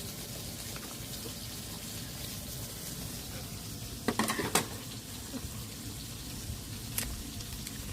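Food cooking with a steady hiss, with a short clatter of utensils or cookware about four seconds in and a single click near the end.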